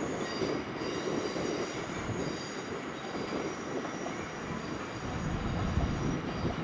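ÖBB Cityjet (Siemens Desiro ML) electric multiple unit rolling through curved pointwork, with a steady rolling noise and high wheel squeal that comes and goes. The low rumble grows louder near the end as the train draws closer.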